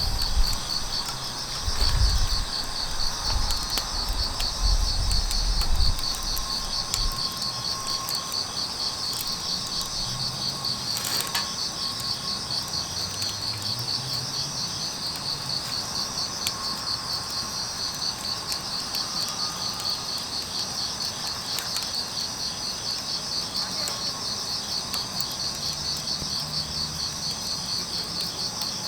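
Crickets chirping in a steady, fast-pulsing trill, with faint scattered crackles from a wood fire. A low rumble runs through the first several seconds.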